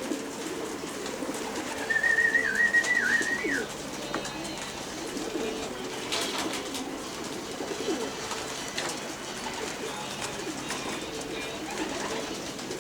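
Racing pigeons cooing at the loft, a steady low murmur of overlapping coos. About two seconds in, a high wavering whistle lasts nearly two seconds and is the loudest sound.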